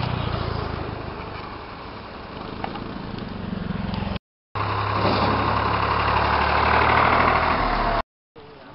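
Engine of road-construction machinery running steadily, a low hum with a noisy rattle above it. It cuts out abruptly twice, about four seconds in and near the end, and runs louder between the two gaps.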